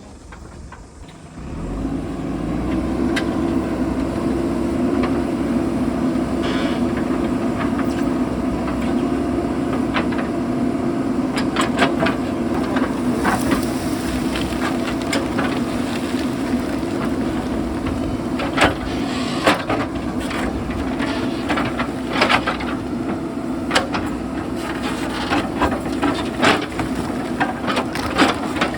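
JCB backhoe loader's diesel engine running steadily, with rocks knocking and clattering against the bucket and each other, more often from about ten seconds in.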